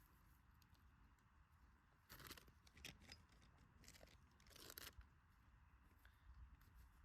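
Near silence with a few faint, brief crackles and crunches, the clearest about two seconds in and again just before the five-second mark.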